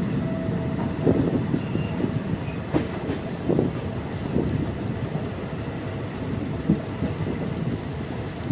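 Passenger train running along the track, heard from aboard: a steady low rumble with irregular clicks and knocks from the wheels passing over rail joints.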